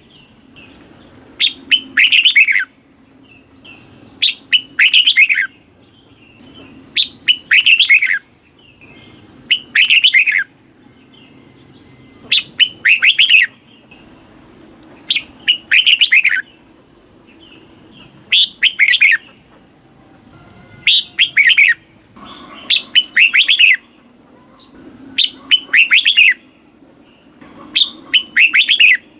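Red-whiskered bulbul singing: loud, quick bubbling phrases repeated about every three seconds, each phrase split into two quick runs of notes.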